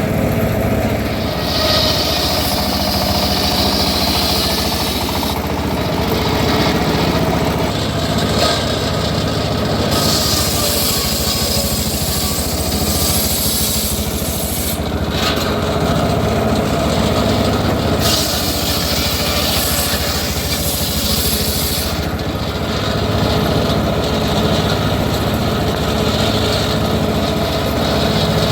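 Homemade circular sawmill running with a steady machine drone, its blade ripping teak logs. The hissing cut noise swells and drops back every few seconds as the blade bites into the wood and clears it.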